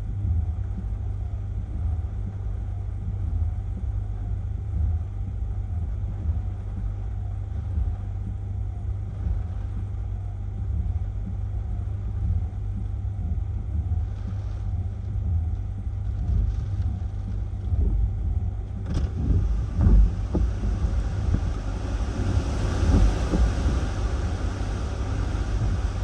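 Hurricane-force wind buffeting the microphone as a constant low rumble. A sharp click comes a few seconds before the end, and a stronger gust then rushes in with a rising hiss.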